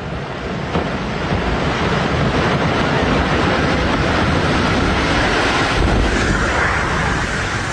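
Loud, steady rushing noise that builds over the first couple of seconds and then holds.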